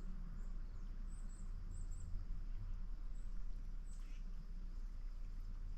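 Faint outdoor ambience: a steady low rumble with a run of short, very high-pitched bird chirps about one to two seconds in and a couple more later.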